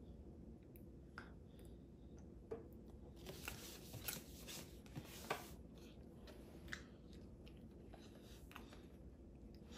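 Quiet room with a toddler chewing and smacking a mouthful of food, with a few small clicks, and a brief scratchy stretch of sharp clicks about three to five seconds in.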